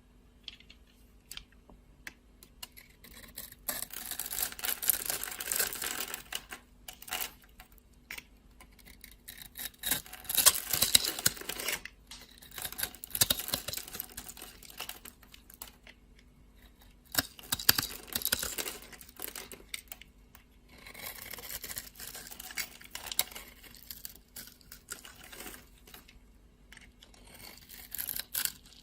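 A knife cutting through dry soap: crisp crackling and crunching in bursts of a second or two, with short pauses between the cuts.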